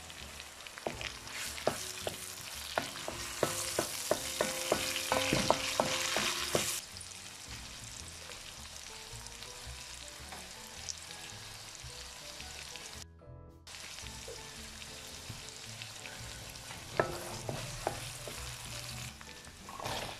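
Shrimp, garlic and onion sizzling in hot oil in a wok while being stirred, a spatula clicking and scraping against the pan. The sizzle and clicking are loudest for the first several seconds, then settle to a quieter frying hiss, with another run of spatula clicks near the end.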